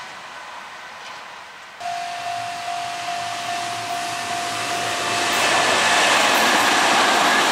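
Kintetsu electric commuter train approaching and passing close by, the wheel-on-rail rumble swelling to its loudest in the last couple of seconds. A steady high whine sounds from about two seconds in until just past the middle.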